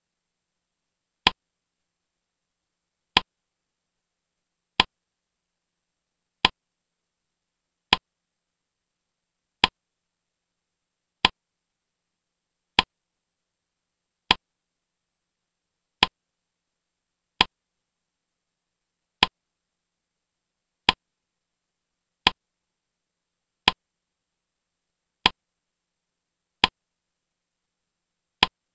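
Sharp single clicks, one about every one and a half seconds, eighteen in all, with silence between: the click that comes with each new word circle popping up on the slide.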